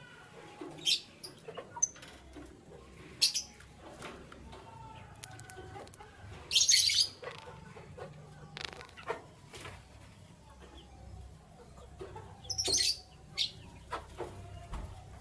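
Canaries fluttering their wings in several short bursts, the longest about halfway through, with faint chirps in between.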